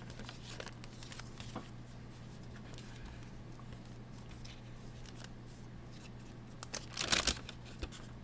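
Pages of a handmade paper-bag junk journal being handled and turned: soft paper rustles and light clicks, with a louder crinkling rustle about seven seconds in.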